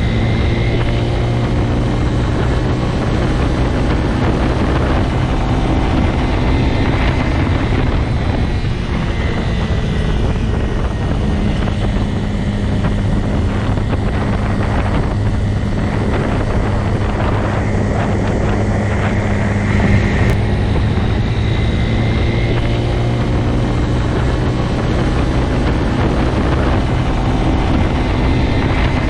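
Motorcycle engine running steadily, its pitch shifting gently, with a short rise about twenty seconds in.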